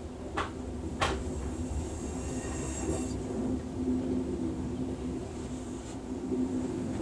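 A passenger train rolling along, heard from inside the coach while a string of loaded coal hopper cars passes close alongside. There is a steady rumble with a low hum, two sharp clicks about half a second apart near the start, and a faint high squeal a couple of seconds in.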